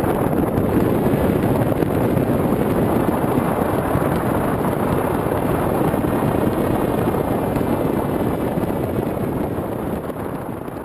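Steady rush of wind on the microphone of a GoPro riding on a Zephir 2 RC flying wing in flight, easing slightly near the end.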